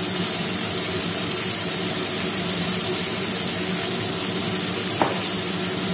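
Onions and tomatoes frying in oil and ghee in an open pressure cooker, a steady sizzling hiss, with a light click about five seconds in.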